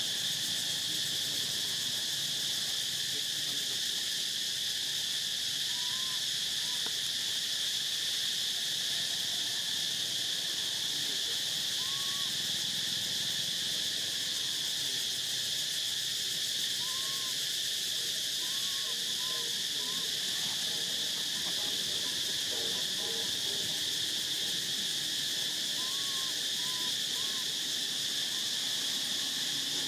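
Steady, continuous chorus of insects such as crickets or cicadas, with a few short, soft arching calls heard now and then over it.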